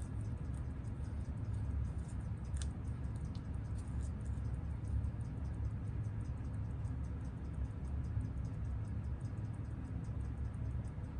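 Seiko 6139 automatic chronograph movement ticking on a timegrapher: fast, even ticks at its 21,600-beats-per-hour rate, about six a second. The beat is very regular, the sign of a healthy movement running with stable amplitude.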